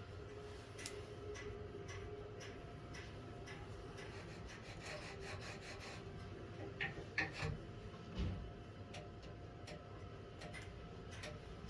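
Wood being rubbed and scraped by hand, with scattered light clicks and a few louder knocks about seven to eight seconds in.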